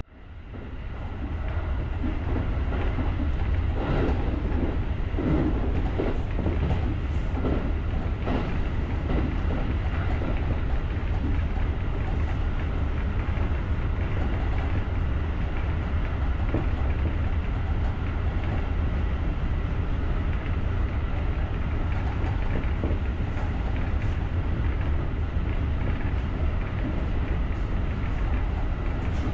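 Electric commuter train running along the track, heard from the driver's cab: a steady low rumble of wheels on rail. Several seconds in, a run of wheel clicks over rail joints sounds. The sound drops out at the very start and swells back within a second or two.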